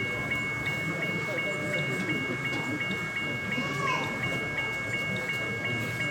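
Exhibition hall ambience: a murmur of crowd chatter under a steady high electronic tone and a rapid repeated beep, about three beeps a second.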